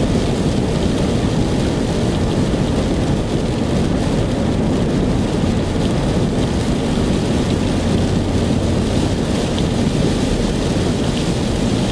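Heavy rain in a thunderstorm, a steady hiss over a low continuous rumble.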